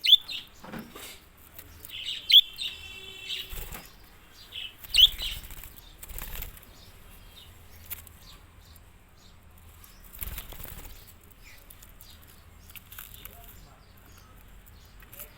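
Pet birds flapping their wings in short flurries and giving sharp, high chirps. The loudest chirps come right at the start, at about two seconds and at about five seconds.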